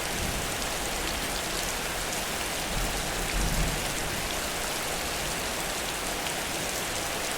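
Heavy rain pouring steadily, with a brief low rumble about halfway through.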